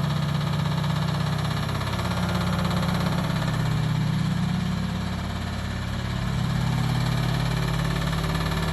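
Blomberg RapidJet washing machine running with a loud, steady low hum and a rapid knocking from the drum. The knocking is getting worse, and the owner puts it down to a worn left shock absorber.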